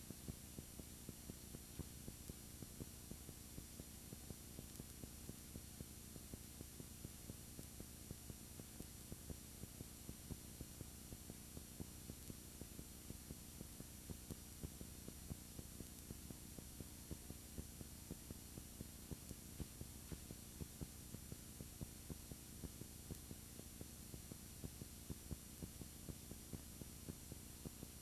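Low, steady electrical hum and hiss with frequent small clicks: the recording's own noise with no real sound coming through, the camera's audio dead after the camera was broken.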